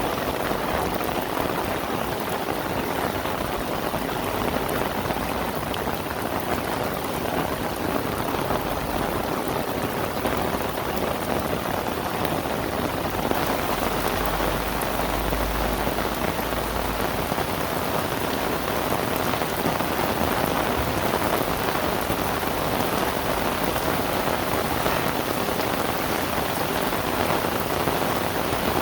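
Heavy rain falling steadily, a dense even hiss that grows a little heavier about halfway through.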